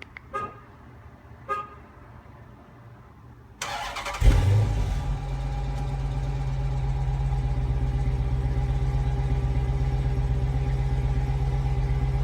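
Two short beeps. About three and a half seconds in, the starter cranks and the 2013 Chrysler 300 SRT8's 6.4-litre HEMI V8 fires with a brief rev flare, then settles into a steady idle. The exhaust runs Flowmaster mufflers in place of the resonators, with the stock suitcase mufflers still fitted.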